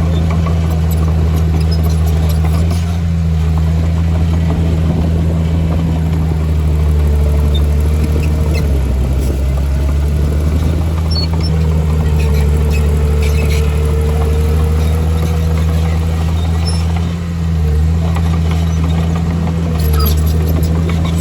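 Heavy diesel engine of earthmoving machinery running steadily under load, with a faint whine through the middle and a brief drop in level about 17 seconds in.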